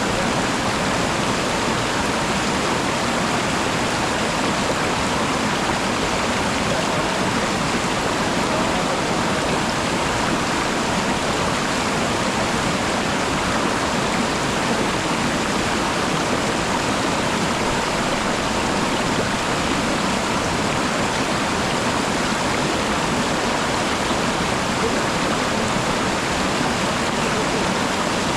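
Waterfall with water rushing and splashing in a steady, unbroken wash of sound.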